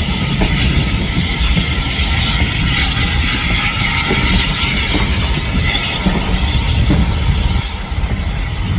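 Steam-hauled passenger train moving slowly away, its coaches rolling past close by: a steady low rumble of wheels on rails with a hiss over it and a few faint clicks.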